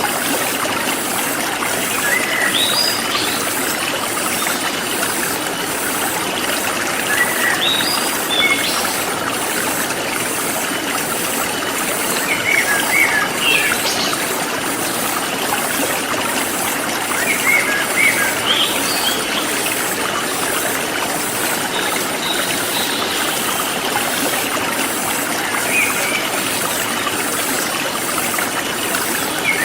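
Forest stream flowing steadily over stones, with short bird chirps coming in small bursts every few seconds. A faint high pulsing repeats at an even pace underneath.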